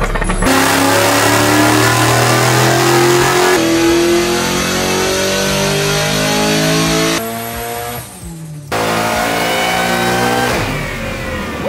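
A car engine revving under hard acceleration, its pitch climbing steadily for several seconds. The sound cuts off abruptly about seven seconds in, and a second rising rev comes back a second or so later.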